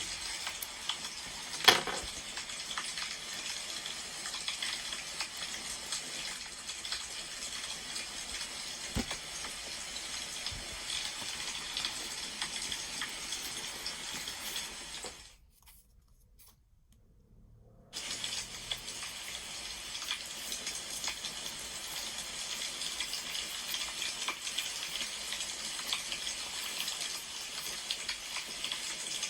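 Firewood fire crackling steadily, with one sharp click about two seconds in. The crackling drops out to near silence for about two and a half seconds in the middle, then resumes.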